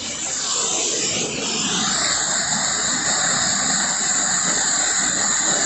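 Waterfall on a small river, rushing water. It grows louder over the first second or two and then holds steady.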